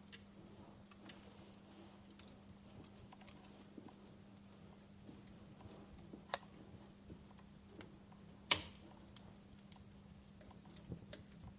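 Wood fire crackling: soft, irregular pops and snaps over a faint hiss, with one louder pop a little past the middle. A faint steady low hum runs underneath.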